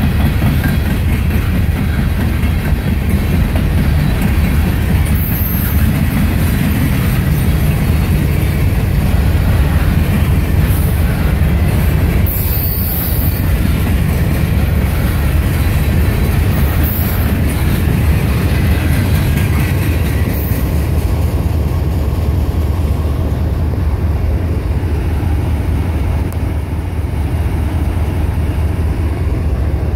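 Freight cars of a CSX manifest train rolling past close by: a loud, steady rumble and clatter of steel wheels on the rails, with a few brief high-pitched sounds over it.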